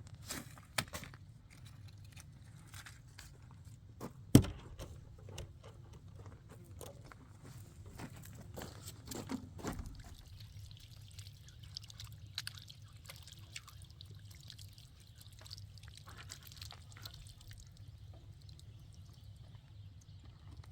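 Liquid pouring and trickling, with scattered clicks and one sharp knock about four seconds in.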